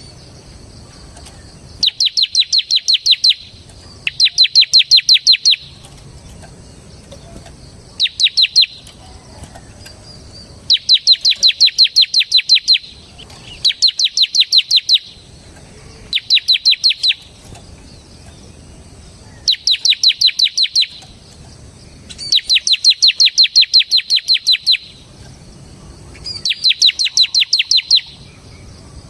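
Bar-winged prinia (ciblek) singing in repeated bursts of rapid, evenly spaced high chips, about eight a second, each burst lasting one to two and a half seconds with short pauses between.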